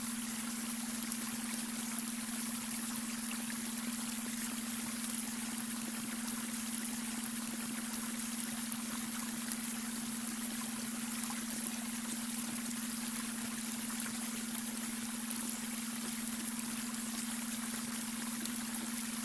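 Babbling brook running steadily, with a steady low tone held underneath it throughout: a beta brainwave tone blended into the water sound.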